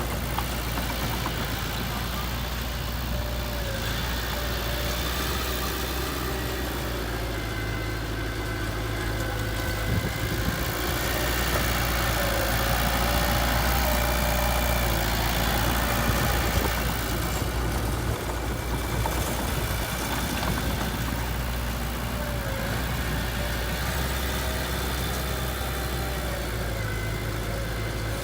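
Diesel engine of heavy earthmoving equipment running steadily at low revs, growing louder for several seconds in the middle.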